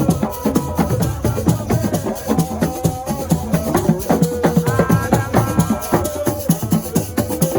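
Assiko music: fast, dense drumming with a shaker rattle, and a voice singing held, sliding notes over the rhythm.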